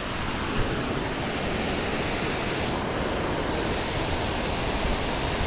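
Steady rushing of water pouring over a creek waterfall.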